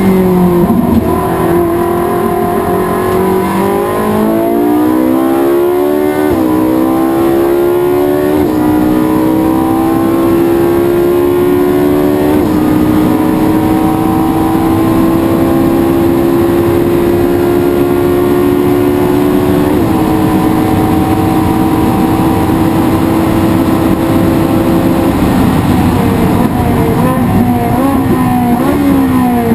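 Race car engine accelerating hard up through the gears, its pitch climbing and dipping briefly at each of about four upshifts, then holding a long full-throttle pull. Near the end it lifts off and the pitch falls with quick throttle blips as it downshifts for braking.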